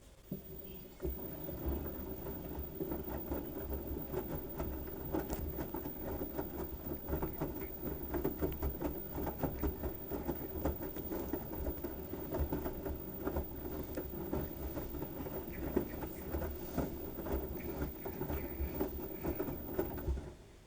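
LG washing machine drum turning a load of wet towels: a steady run of sloshing water and soft tumbling thumps. It starts about a second in and stops just before the end.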